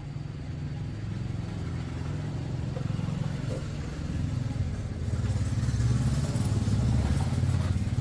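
Motorcycle engine running steadily, getting louder about five seconds in.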